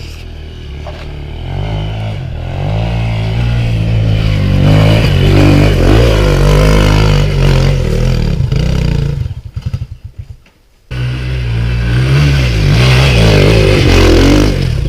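Dirt bike engine revving hard under throttle, its pitch rising and falling, with some clatter. About two-thirds of the way in the sound drops away for about a second, then comes back suddenly at full level.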